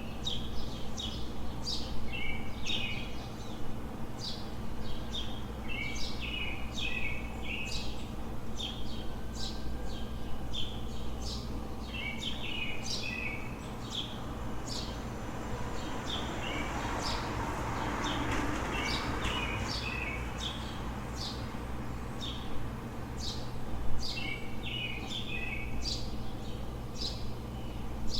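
Songbirds chirping in short, repeated phrases over a steady low city hum, with a vehicle passing that swells and fades about halfway through.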